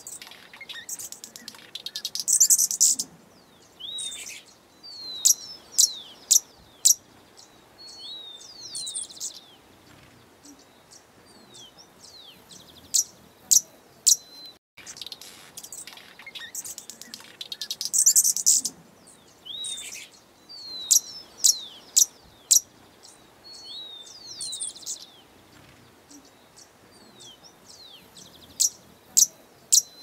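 Small birds chirping: sharp, high chirps and short whistled notes, some sliding downward, coming in scattered clusters. The same run of calls repeats about halfway through.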